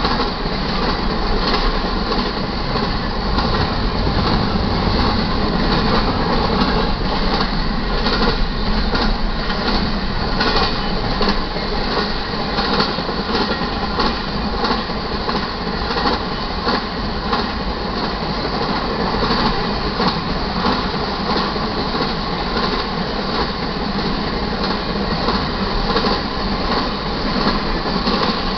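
Intermodal freight train cars rolling past at speed: a loud, steady rumble and rattle of steel wheels on rail, with repeated clicks from the wheels running over the track.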